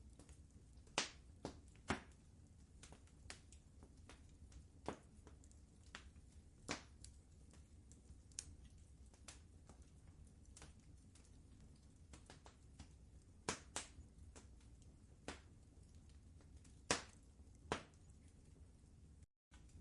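Wood fire crackling in a fireplace: irregular sharp pops and snaps over a faint steady low rumble. The sound cuts out for a split second near the end.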